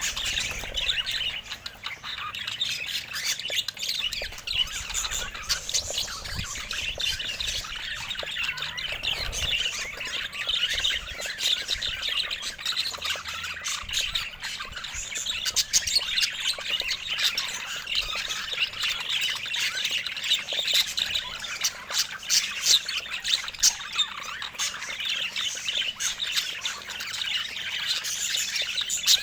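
A group of budgies (budgerigars) chattering continuously, a dense mix of warbles, chirps and short squawks.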